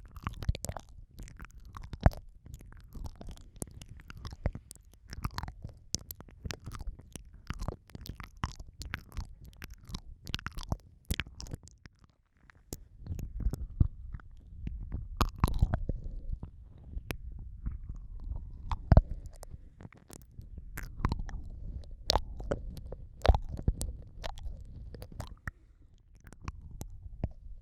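Close-microphone ASMR ear-eating mouth sounds: wet smacking, licking and sucking against the microphone, with many irregular sharp clicks over a low rumble and a brief pause about twelve seconds in.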